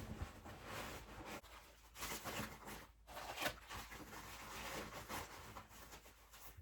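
Faint, irregular rustling and shuffling of gear being handled and packed into a bag, with a few soft knocks.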